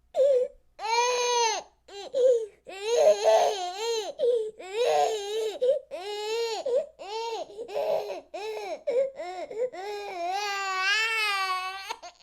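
A baby crying: a string of wails, each rising and falling in pitch with short breaths between them, ending in one long drawn-out wail.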